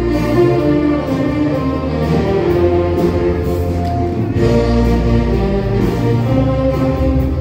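Band music: a melody of long held notes over a steady low bass line, without a break.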